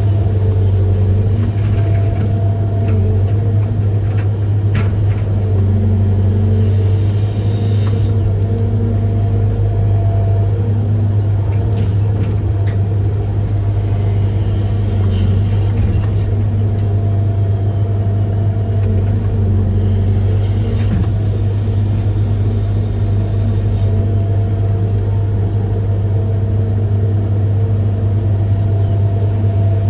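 Amphibious excavator's diesel engine running steadily as a deep, even drone, with a few faint clicks and brief higher tones over it.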